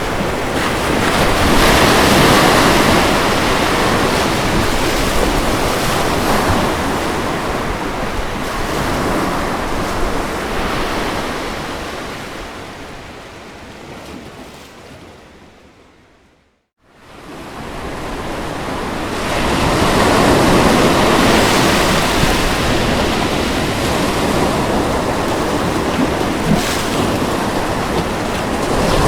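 Ocean surf washing in, a continuous rushing noise. About halfway through it fades away to a moment of silence, then fades back in.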